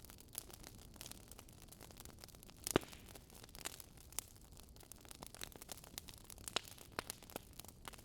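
Campfire crackling: irregular sharp pops and snaps of burning wood over a soft hiss, with one louder pop about three seconds in.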